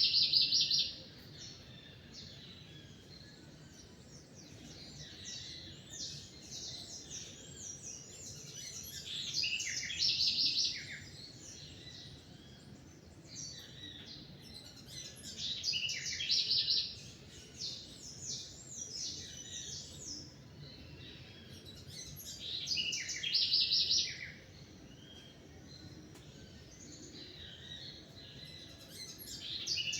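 Songbirds singing at dawn. One bird repeats a loud song phrase about every six or seven seconds, each phrase ending in a fast trill, while quieter chirps from other birds fill the gaps.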